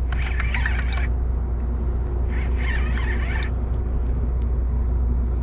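Steady low rumble of a ship's engine on the river, with a faint steady hum over it. Two short patches of higher-pitched clatter come through, one at the start and one in the middle.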